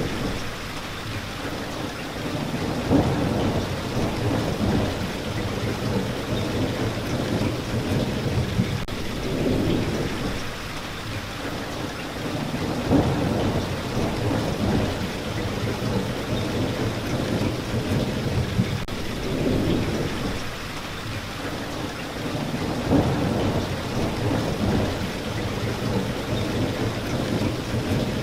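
Steady heavy rain falling, with low rumbles of thunder swelling and fading every few seconds.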